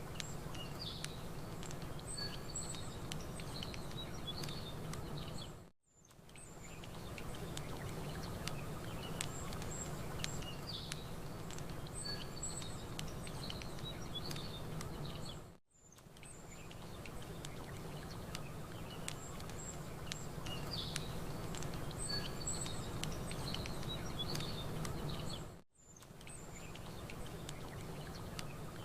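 Campfire crackling with small sharp pops over a steady low rush of gentle lapping water, while small birds chirp and twitter. The sound fades out and back in three times, about every ten seconds, where a short looped recording repeats.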